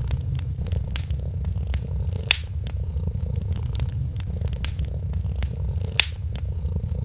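A cat purring steadily and close, a low pulsing rumble, over a wood fire crackling with small scattered pops. Two louder pops come about two seconds in and near the end.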